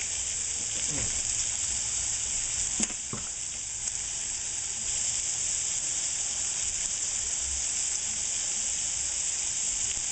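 Prosciutto-wrapped yellowfin tuna and shrimp sizzling steadily in a hot frying pan. Two light knocks come about three seconds in.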